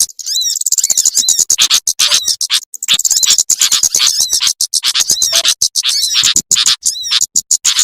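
Bird-lure recording of small birds such as sunbirds: a fast, dense stream of high chirps and twittering trills, broken by brief gaps.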